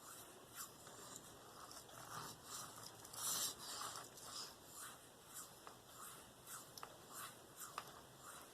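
Steel knife blade stroked freehand across a wet Venev diamond sharpening stone, a run of soft, even swishes. One louder, longer stroke comes about three seconds in.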